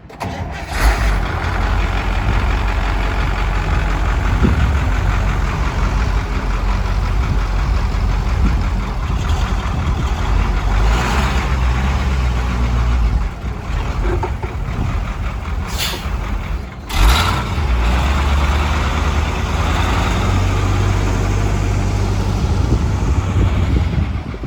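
Quad-axle farm truck's engine running with a steady low rumble, broken by a few short bursts of noise.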